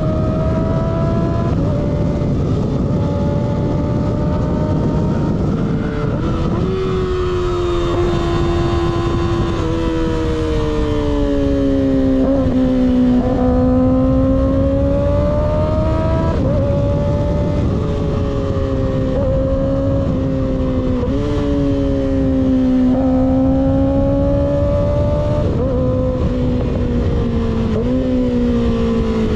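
Sport motorcycle engine running through an unbaffled M4 GP19 slip-on exhaust while riding, its pitch rising and falling with the throttle and several quick dips like gear changes. A low wind rush runs under it.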